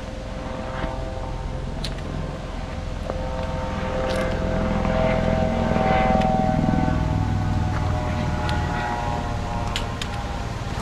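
Helicopter flying past, its engine and rotor drone growing louder to a peak about halfway through and then fading.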